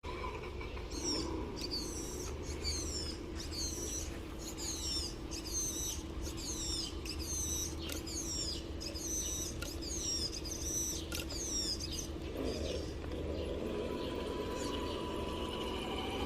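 A bird calling over and over with short high chirps that fall in pitch, about one and a half a second, stopping about twelve seconds in, over a steady low hum.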